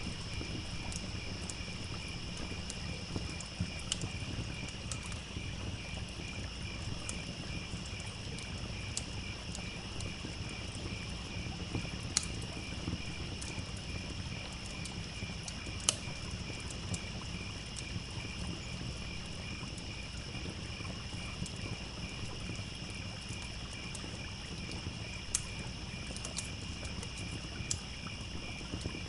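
Crickets chirping in a steady, high, continuous chorus, with a campfire crackling in scattered sharp pops, the loudest two a little before and just after halfway. A low steady rush of running water lies underneath.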